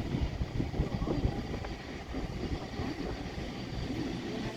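Train rolling past: a steady low rumble with irregular clanks and knocks from the cars.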